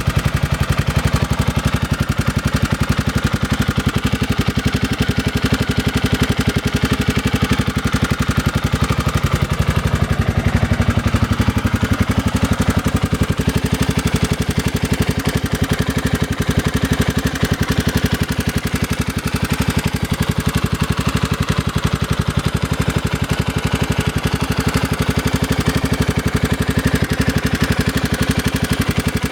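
An engine idling steadily with an even, rapid pulsing, recorded to show an abnormal noise.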